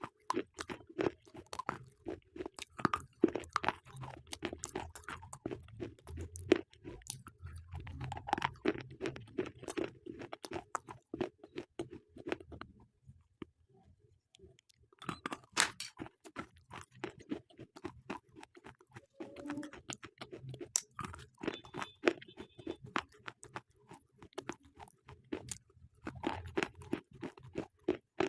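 A person biting and chewing slate pencils up close: dense, sharp crunching and grinding, with a pause of about two seconds around the middle.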